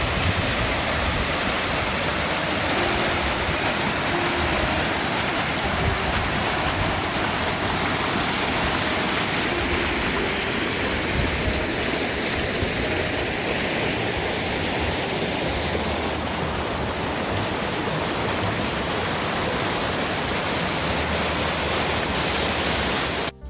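Rushing water of a cascading mountain stream, a steady loud rush.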